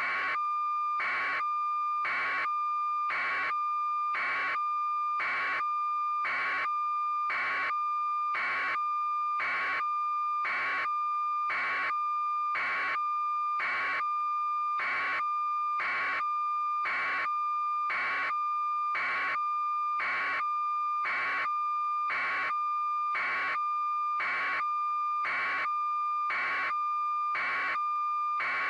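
Electronic tone sounding steadily, with a beep pulsing over it about once a second in an unchanging pattern.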